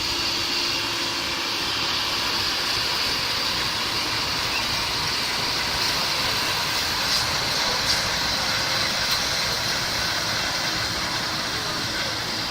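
Claas Lexion 540 combine harvester running steadily while harvesting wheat: an even machine noise with a high hiss over it.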